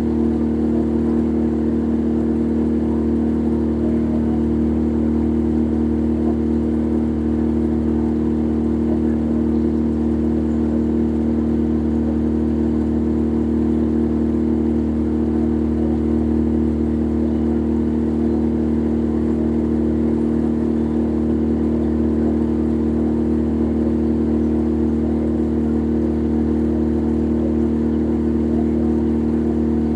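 Boat's engine running at a steady speed, an even, unchanging drone with a strong hum.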